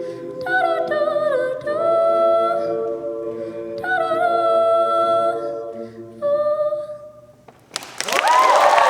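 A cappella group humming held chords while a higher voice sings wordless gliding phrases, the ending fading away. About a second before the end, applause and cheering break out.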